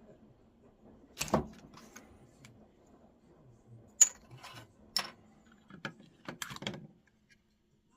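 Scattered clicks and light knocks of small hard parts being handled, about a dozen irregular taps with the sharpest one just after four seconds in; they stop about seven seconds in.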